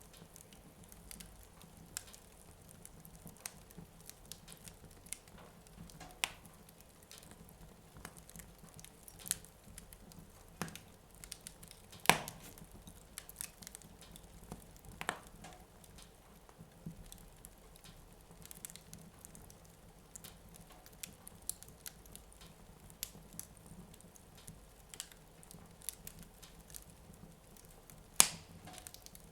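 Wood fire in a fireplace crackling, with irregular small clicks and pops. The two loudest pops come about twelve seconds in and near the end.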